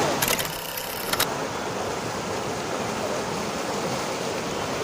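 Mountain river rushing over rocks: a steady, even rush of water, with a few brief clicks about a quarter second to a second in.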